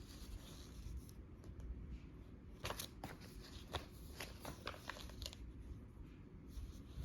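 Paper pages of a filled journal being handled and turned: a run of short, crisp rustles and clicks in the middle, over quiet room tone.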